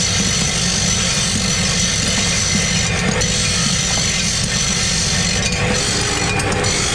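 Workshop machinery running steadily: a continuous mechanical drone with a hiss over it.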